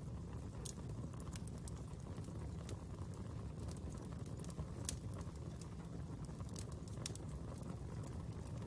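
Wood fire burning with a steady low rumble and scattered sharp crackles and pops, a few louder pops about five and seven seconds in.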